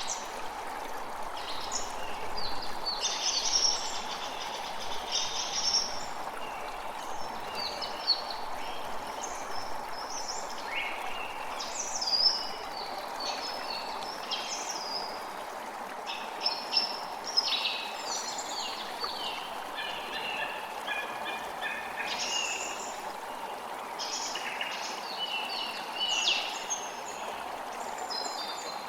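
A creek running steadily, with many small birds chirping and singing over it throughout.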